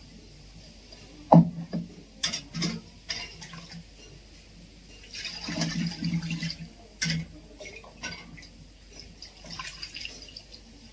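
Raw chicken pieces being washed by hand in water: irregular splashing and sloshing, with a few sharp knocks against the vessel and a busier stretch of splashing about halfway through.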